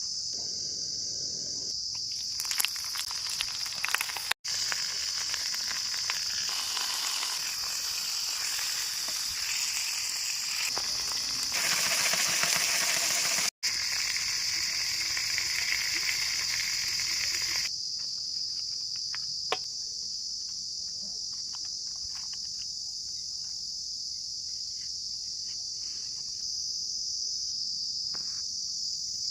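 Chicken drumstick kebabs frying, a dense crackling sizzle that starts about two seconds in and stops abruptly after about sixteen seconds. A steady high-pitched drone of crickets runs underneath throughout.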